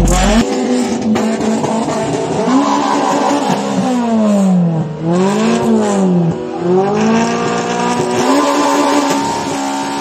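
Car engine being free-revved, its pitch repeatedly rising and falling as the throttle is blipped and released.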